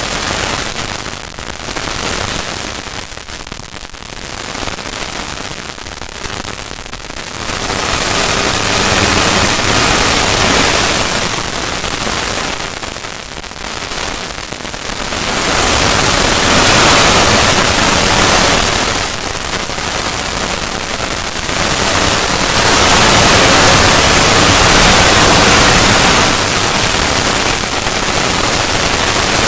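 Harsh, static-like noise from a stretched-out, edited logo sound effect, quieter for the first several seconds and then swelling and easing in long waves.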